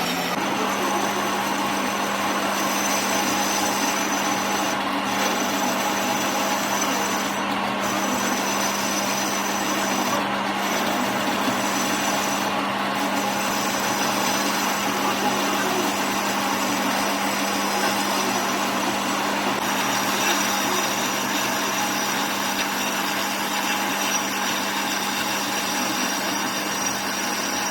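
Metalworking in a workshop: a machine runs with a steady hum while a tool rubs and scrapes continuously against metal, at an even level throughout.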